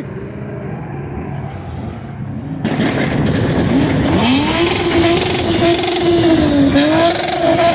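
A performance car's engine rumbling, then from about three seconds in revved hard and held high against a two-step rev limiter, crackling. The revs dip briefly near the end and climb again.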